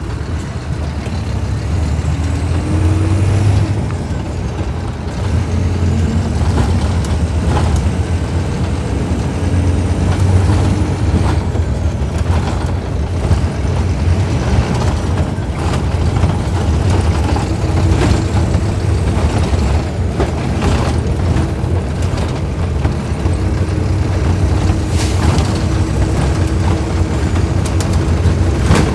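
Scania K310IB bus engine running under way, a heavy low drone throughout. Its pitch climbs and then drops several times as it pulls through the gears, with a faint high whine rising and falling alongside, and a few sharp clicks.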